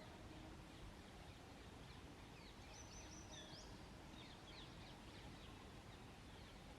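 Faint, distant bird chirps over a steady low background hiss, with a quick run of high chirps near the middle.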